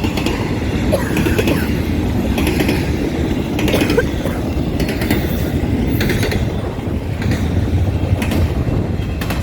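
An intermodal freight train rolls past with a steady, loud rumble of wheels on rail. Irregular clicks and knocks come every half second to second as the wheels cross a damaged track section that dips down and back up.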